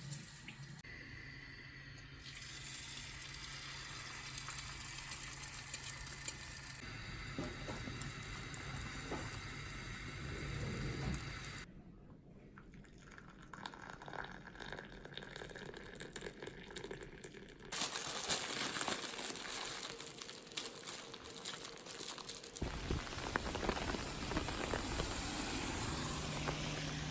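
A run of everyday household sounds that changes every few seconds: water running, with some crinkling and handling noise.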